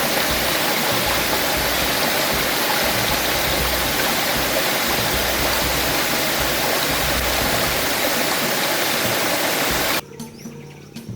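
Water rushing steadily, like a stream or a pour of water, cutting off abruptly about ten seconds in.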